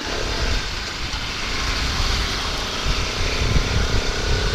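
Motorcycle engine running at a steady speed, with wind rushing over the microphone.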